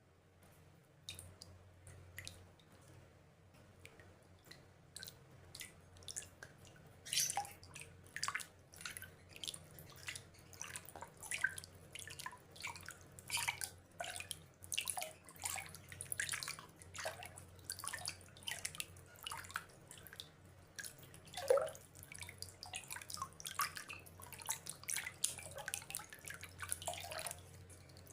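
Rainwater dripping: single drops falling at irregular intervals, sparse at first and coming much thicker from about seven seconds in.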